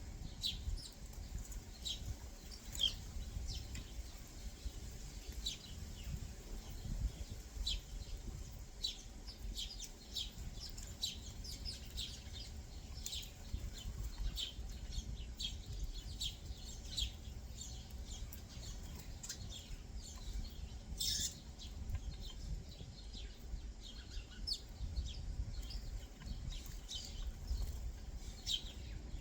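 Backyard songbirds chirping: many short, high chirps in an irregular scatter, with one longer, louder call about three quarters of the way through, over a steady low rumble.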